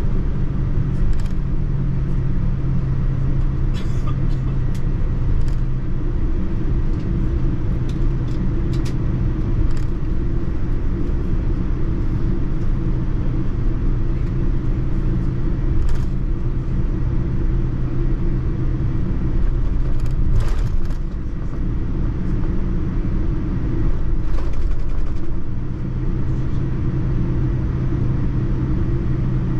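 Cabin noise aboard a Boeing 787-9 airliner: a steady low rumble of engines and airflow with a constant hum, and a few faint clicks.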